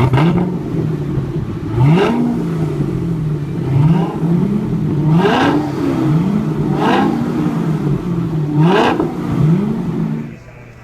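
Equus Bass 770's supercharged V8 being revved again and again, its pitch rising and falling in short blips, with a sharp crack at about four of the rev peaks. The revving stops shortly before the end.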